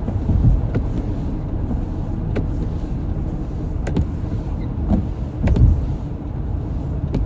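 Steady low road and engine rumble heard from inside a moving car on wet pavement. A light tick comes every second and a half or so, in the rhythm of windshield wipers sweeping.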